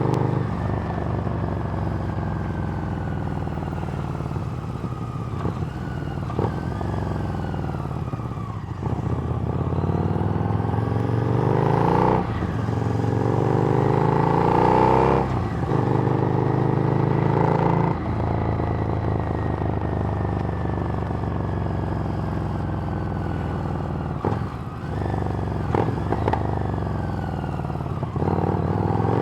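Harley-Davidson Street Rod's 750 cc V-twin running through a Screamin' Eagle exhaust while being ridden. The engine note climbs through the gears with brief dips at each shift, pulls hardest about halfway through, then eases into a slowly falling cruise.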